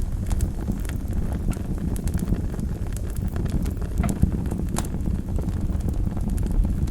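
Wood fire burning in a fireplace: a steady low rumble of the flames with irregular crackles and pops from the burning logs, a couple of sharper pops about four and five seconds in.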